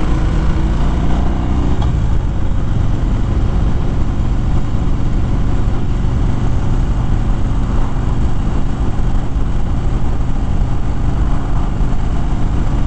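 2013 Harley-Davidson Fat Bob's V-twin engine running steadily at road speed, with wind noise over the microphone; the engine note shifts about two seconds in.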